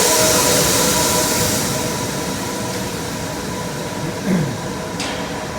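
Grain drying and handling plant running steadily: a machinery hum with a few constant tones under a strong hiss, the hiss fading over the first two seconds. A short sliding tone comes about four seconds in and a sharp click just after five.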